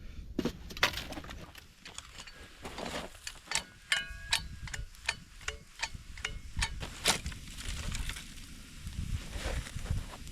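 Many irregular sharp cracks and snaps of dry wood while a campfire is being built up, with one brief squeaky pitched sound about four seconds in.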